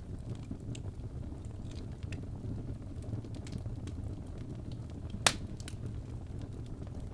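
Fire burning in a fireplace, crackling with scattered small snaps over a low steady rumble, and one loud sharp pop a little over five seconds in.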